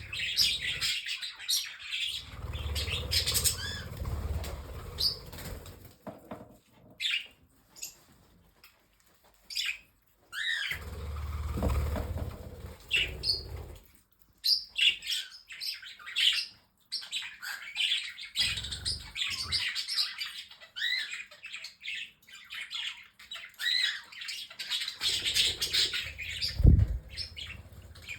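A flock of pet budgies, cockatiels and parrotlets chirping and chattering, with several bouts of wings flapping: a few seconds in, around the middle and near the end. There is a quieter lull in the chirping about a quarter of the way through.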